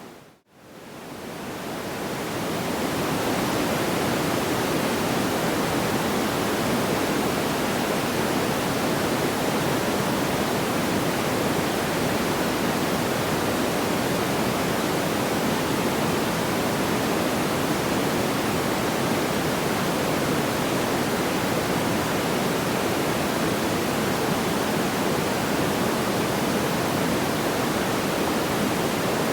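A steady, even rushing noise like pink noise, with no distinct crackles. Just after the start it cuts out to near silence, then fades back in over a couple of seconds, the seam of a looped sleep-sound track.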